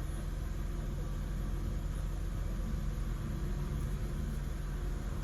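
2007 Saturn VUE's engine running steadily at low speed with the SUV in reverse, heard from inside the cabin as an even low hum.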